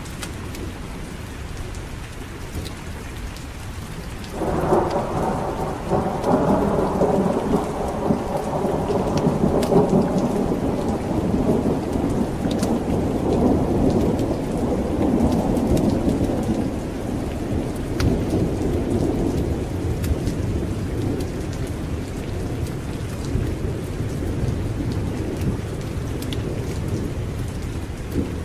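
Steady heavy rain with a roll of thunder that breaks suddenly about four seconds in and rumbles on, slowly fading over the next fifteen seconds or so.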